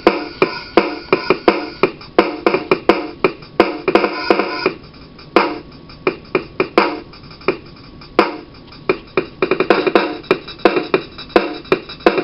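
Korg KR Mini drum machine playing a drum rhythm pattern: a steady beat of sharp electronic drum hits. The pattern thins out to fewer hits about five seconds in, then fills in again about three seconds later.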